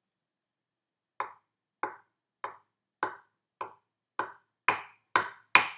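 Wooden spoons tapping on a wooden chopping board to imitate rain: after a second of silence come single sharp wooden taps, about nine of them, slow at first and then quicker and louder toward the end as the rain picks up.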